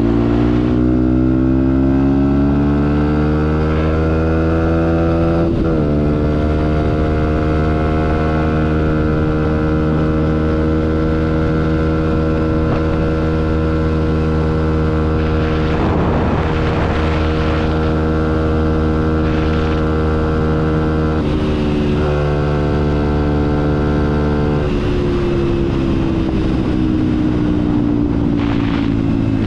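Motorcycle engine under way: it revs up for about five seconds, drops in pitch at a gear change, then holds a steady pitch for a long stretch before slowly winding down near the end.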